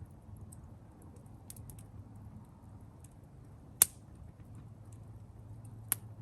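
Wood campfire crackling with faint scattered ticks, and two sharp pops, the louder one about four seconds in and a second one near the end.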